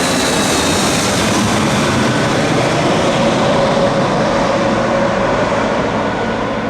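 Jet airliner's engines passing close by: loud, steady jet noise with a high whine that drifts down in pitch, easing a little near the end.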